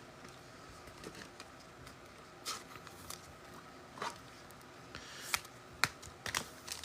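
Quiet handling of trading cards and packs: a few scattered soft clicks and taps, about a second apart.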